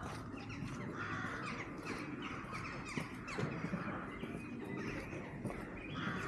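Birds cawing, hoarse calls repeated several times, with a few sharp clicks in between.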